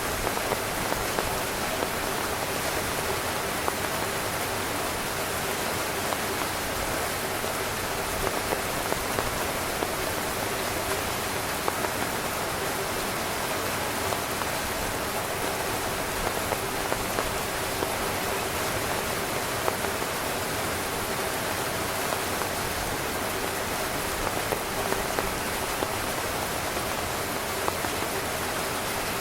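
Rain falling steadily on a tent: a constant hiss with frequent sharper drop hits on the fabric.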